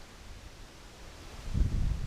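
A gust of wind buffets the microphone as a low rumble about one and a half seconds in, over a steady faint rustle of leaves.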